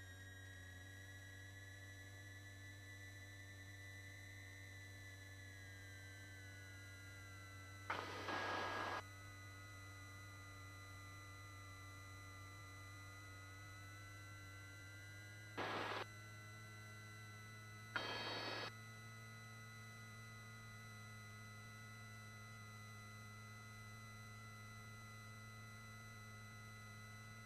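Helicopter intercom line carrying a steady low hum and a high electronic whine that drifts slowly up and down, with brief bursts of noise cutting in about a third of the way through and twice more just past halfway.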